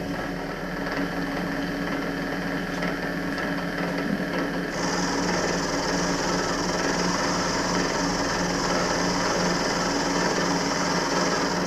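Milling machine running steadily with its motor humming. About five seconds in, a steady high hiss joins as the cutter starts taking a cut along the mild-steel locating keys.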